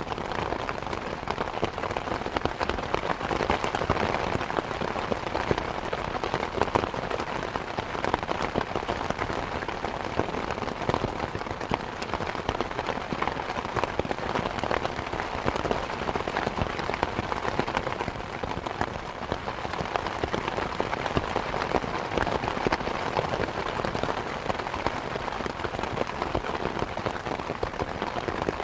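Steady rain falling: a continuous, even hiss made of many small drop impacts, with no gusts or breaks.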